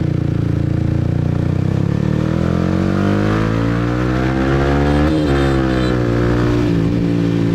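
Motorcycle with a loud exhaust accelerating, its engine note rising steadily for about five seconds, then dropping sharply at a gear change and running on at a steadier, lower pitch.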